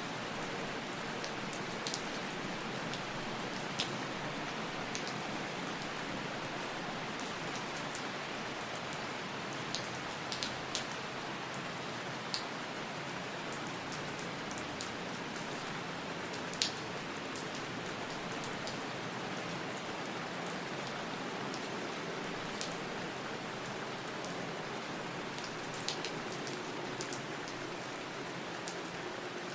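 Steady rain falling, an even hiss with scattered sharper drips ticking at irregular intervals.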